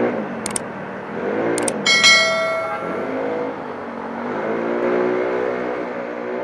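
Motorcycle engine running and revving up and down in traffic. Two click sound effects about half a second and a second and a half in are followed by a bell ding about two seconds in that rings out for about a second, from a subscribe-button overlay.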